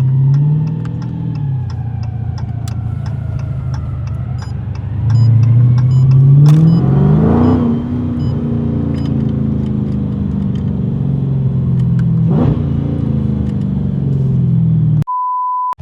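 Straight-piped 2020 Dodge Charger Scat Pack 6.4-litre HEMI V8 exhaust while driving: a steady loud drone, then the engine revs up under acceleration about five seconds in, loudest around six to seven seconds, before settling back to cruising. A short steady beep-like tone sounds just before the end.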